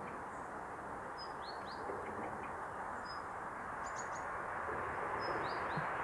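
Small birds chirping: a scatter of short high calls and quick falling notes, heard over a steady background noise.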